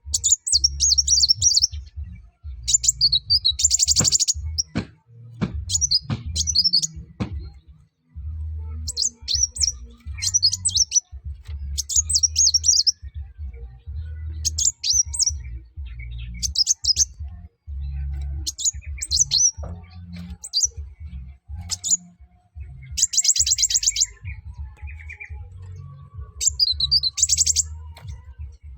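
Kolibri wulung sunbird singing vigorously: bursts of rapid, high chirping trills repeated every second or two. A low rumbling hum runs underneath, with a few sharp clicks about four to seven seconds in.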